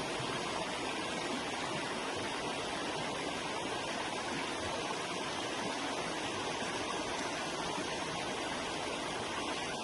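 River water flowing and rushing over rocks in a steady, even stream.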